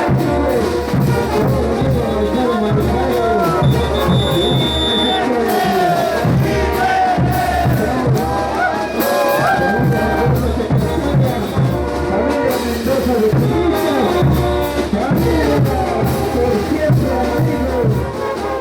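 Bolivian brass band playing a ch'uta dance tune: brass melody over a steady bass-drum beat.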